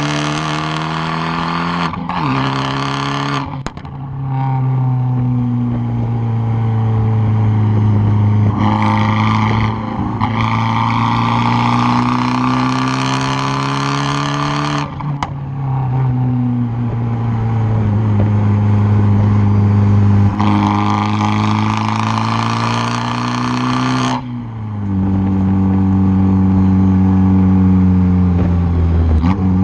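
Exhaust of a tuned 2013 Fiat 500 Abarth's turbocharged 1.4-litre four-cylinder, heard close at the tailpipe, running under hard load in long pulls. The note breaks off suddenly and changes pitch three times, about three and a half seconds in, about halfway, and near the end, as the throttle lifts or a gear changes.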